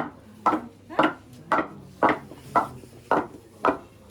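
Footsteps in wooden clogs on a hard floor: about eight even, hollow wooden knocks, roughly two a second, as someone walks in a newly fitted pair.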